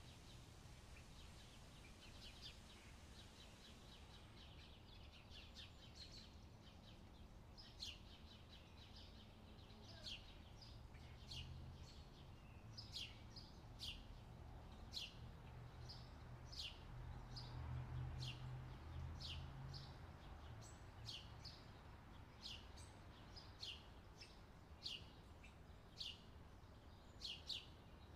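Faint, short bird chirps, each falling in pitch, repeating about once a second over a low rumble that swells twice.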